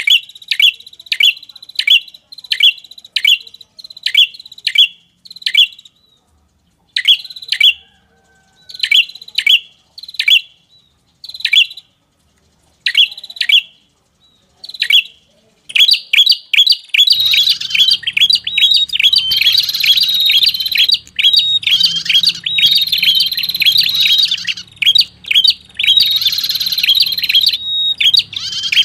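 Bird-lure recording of a red-headed prenjak (prinia) calling. Sharp high chirps repeat about one or two a second, thin out with short gaps near the middle, then turn into dense, rapid chattering with a low hum underneath over the second half.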